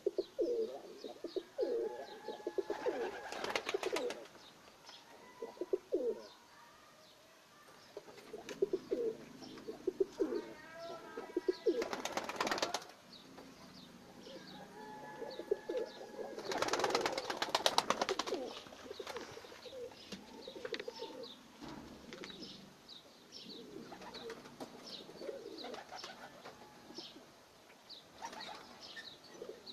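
Najafi fancy pigeons cooing over and over, with three louder bursts of wing flapping.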